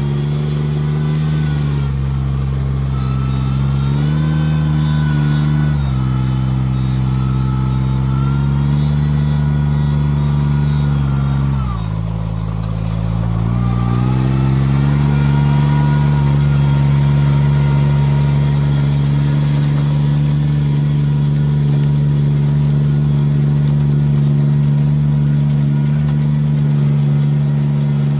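Farm machine engine running steadily under load. Its pitch rises and falls a little a few times in the first six seconds, drops sharply about twelve seconds in, then climbs back and holds steady.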